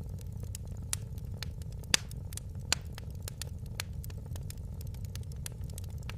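Fire in a fireplace crackling: irregular sharp pops and snaps, the loudest about two seconds in, over a steady low rumble.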